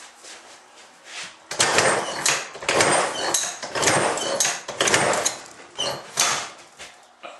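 A quick run of irregular clattering and scraping sounds with sharp clicks, loud for about five seconds and then stopping.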